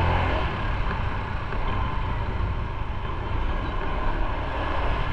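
A motorcycle being ridden on the road: a steady mix of engine and road noise.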